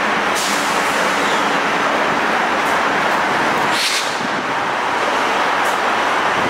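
Steady rolling noise of a train going by, with a faint even hum underneath and brief hissing sounds about half a second in and again near four seconds.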